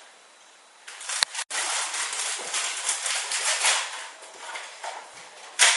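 Dense crackling and crinkling of a bag of potato chips being handled. It starts about a second in and fades away after a few seconds.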